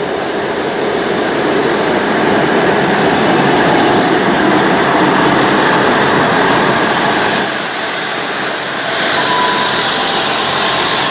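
Class 159 diesel multiple unit running into the platform: steady loud engine and wheel noise. The noise eases slightly about seven and a half seconds in, and a faint, thin high tone sounds briefly about nine seconds in.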